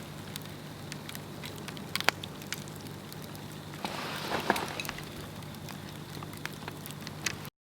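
Swedish torch log fire burning, a steady hiss of flame with frequent sharp crackles and a few louder pops, the loudest about two seconds in and again about four and a half seconds in. The sound drops out for a moment right at the end.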